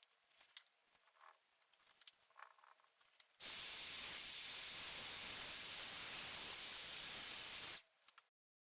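A steady hiss, like a spray or a jet of air, that starts suddenly about three seconds in and cuts off about four seconds later. Faint light tapping and handling sounds come before it.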